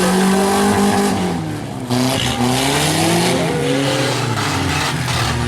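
Several demolition-derby compact trucks' engines revving up and down over one another, with a sudden loud hit about two seconds in.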